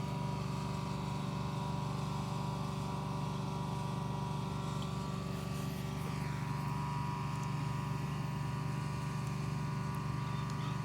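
A motor running steadily at constant speed: a low hum with several held tones above it.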